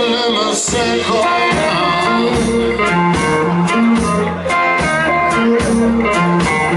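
Live blues band playing an instrumental passage between sung verses, guitar to the fore over bass and drums.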